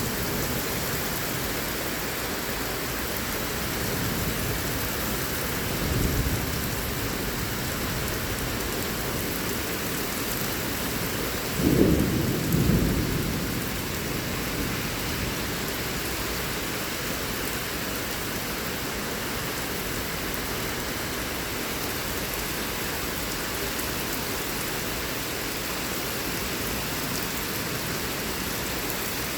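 Heavy rain pouring steadily in a severe thunderstorm, with thunder rumbling twice: a smaller rumble about six seconds in and a louder clap with rumble about twelve seconds in.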